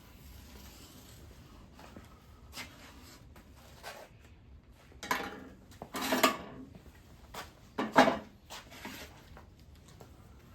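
Scissors cutting cardboard: quiet handling, then a few short, loud cuts about five, six and eight seconds in.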